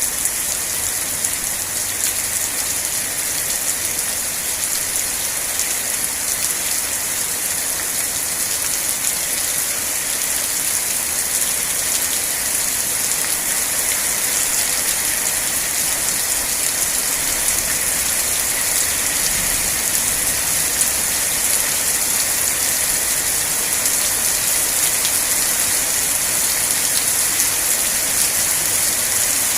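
Steady rain falling, a dense even hiss with fine patter of drops hitting a surface.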